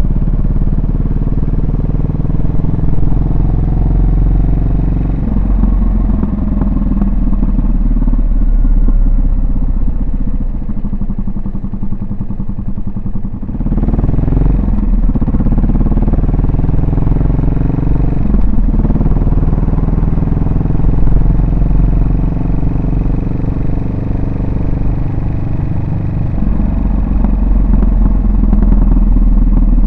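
Yamaha SR400's air-cooled single-cylinder four-stroke engine and exhaust under way, the note rising and falling with speed. It eases off a little before the middle, then picks up again with rising pitch.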